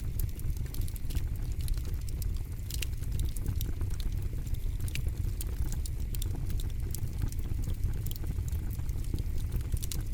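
Campfire burning, crackling with frequent sharp snaps over a steady low rumble.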